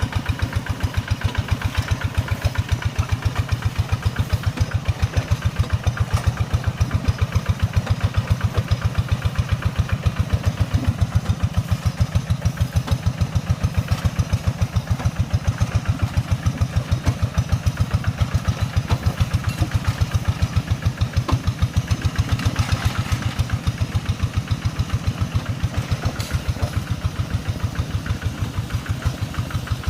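Tractor engine idling steadily with an even chugging beat of about five pulses a second.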